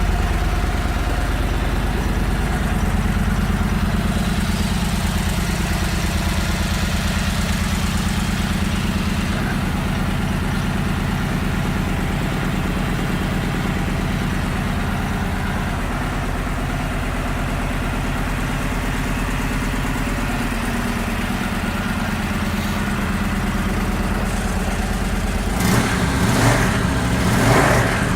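Victory Vegas 8-Ball's stock V-twin idling steadily, then revved in a few quick throttle blips near the end.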